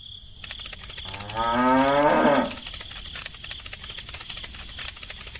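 A cow mooing once: a single call of just over a second that drops in pitch as it ends.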